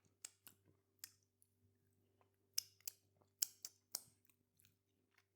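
Near silence with faint scattered mouth clicks from quiet chewing of a bite of burger, about seven sharp ticks spread through, over a low steady hum.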